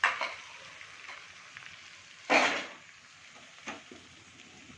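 Spatula scraping and stirring chilli chicken in a frying pan: three short scrapes, the loudest about halfway through, over a faint sizzle from the pan with the gas just switched off.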